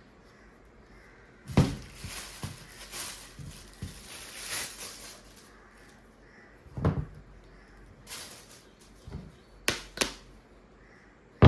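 Cardboard shoe box and packaging being handled: a sharp knock, then a few seconds of rustling with light knocks, and later separate knocks, the loudest near the end.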